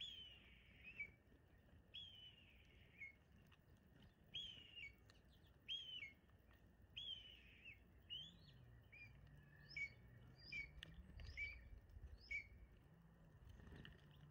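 A songbird repeating a clear whistled call, faint. Each note slides down in pitch, about one every one to two seconds, and the notes turn shorter and quicker about halfway through.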